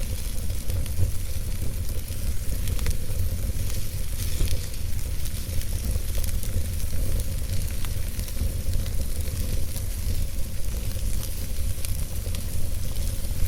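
Wood logs burning in a fireplace: a steady low rumble with a hissing sizzle and frequent small crackles and pops.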